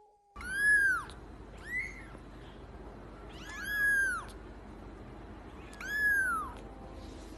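A cat meowing four times: loud, high, drawn-out meows that rise and then fall in pitch, spaced about two seconds apart.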